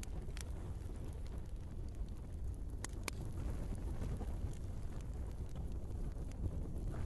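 Log fire burning in a fireplace: a steady low rumble with scattered sharp crackles and pops, two of them close together about three seconds in.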